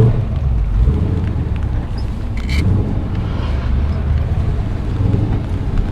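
LS V8 engine in a BMW E36 running at low revs, a steady low rumble, with a few light clicks and a brief hiss about two and a half seconds in.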